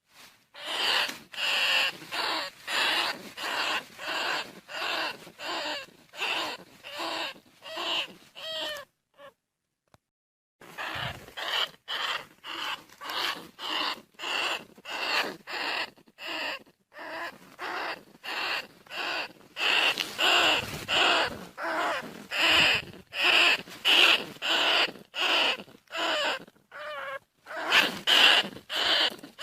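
Field bandicoot rat calls: a long run of short, sharp squeaks, about two a second, with a pause of a second or so about nine seconds in. This is the call played as a lure to bring rats in.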